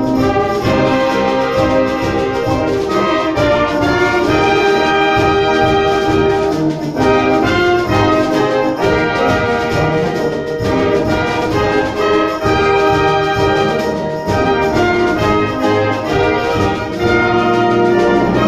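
A concert band playing, with the brass to the fore over the woodwinds and low instruments.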